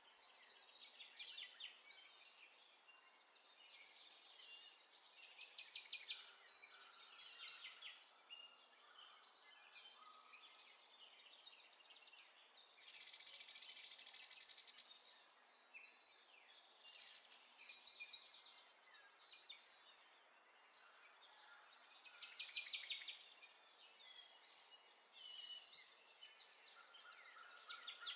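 Songbirds chirping and trilling in rapid runs of notes, one burst after another, over a faint steady hiss.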